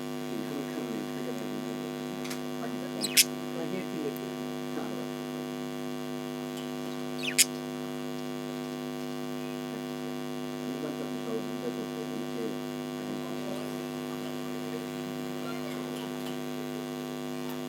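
Steady electrical hum. Budgerigars chatter faintly under it, with two sharp, very short high calls about four seconds apart.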